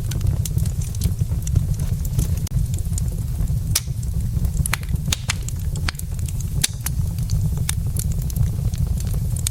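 Burning wood logs in a fireplace crackling, with irregular sharp pops and snaps over a steady low rumble from the fire.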